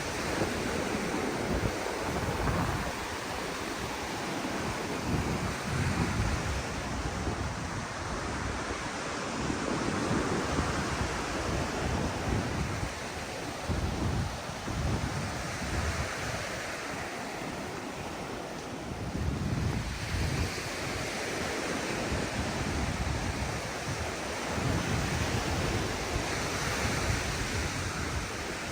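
Ocean surf washing onto a sandy beach in a steady rush, with wind buffeting the microphone in irregular low gusts.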